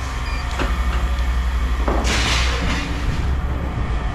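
A steady low engine rumble with scrap metal clanking, and a loud clattering crash about two seconds in.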